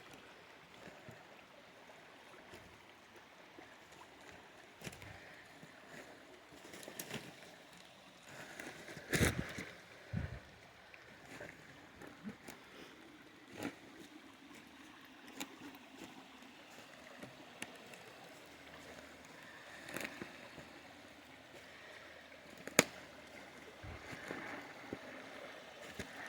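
Water flowing into a pond inlet, a faint steady trickle with gurgles and many small scattered splashes and clicks. A louder knock comes about nine seconds in, and a sharp click near the end.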